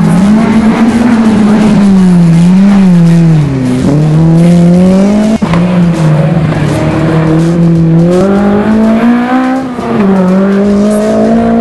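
Rally car engine revving hard, its note rising and dipping again and again as the car is driven at speed.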